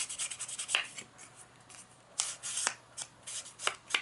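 An ink pad rubbed along the edges of a paper journal page to ink them: a series of quick, papery rubbing strokes with a few sharper taps.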